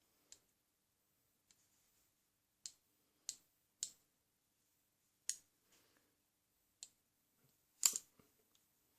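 Sharp metal clicks from a wheellock pistol lock's jaw being worked against its stiff, newly fitted jaw spring, about seven clicks at uneven spacing, the loudest near the end.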